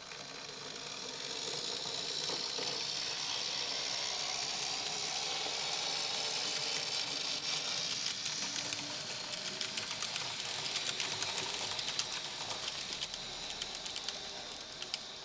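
Märklin mini-club Z-scale model train running on the track: a high-pitched whine and hiss that swells over the first couple of seconds and then holds steady, with rapid clicking in the second half.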